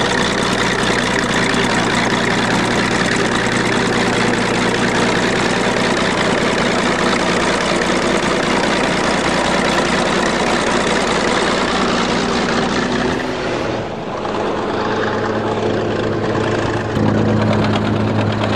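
A vehicle engine running steadily. About 13 seconds in, the engine note drops and the sound thins; near the end it steps up again to a higher, steady note.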